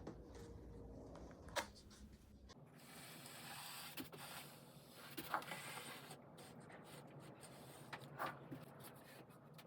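Faint workbench handling: a few light knocks and a scraping rustle in the middle.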